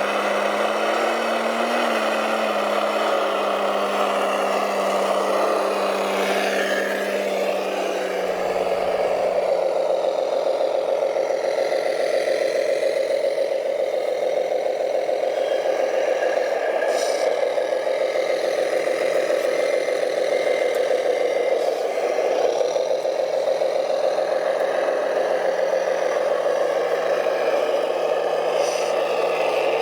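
Radio-controlled scale model truck or machine running, a steady motor hum with light rattling.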